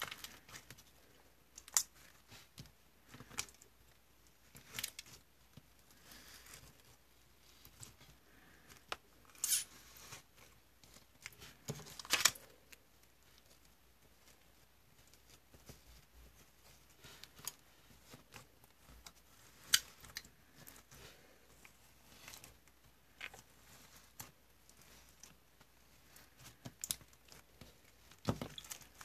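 Slime being played with by hand: irregular sticky clicks and small pops as it is pressed, stretched and poked, with a few louder snaps now and then.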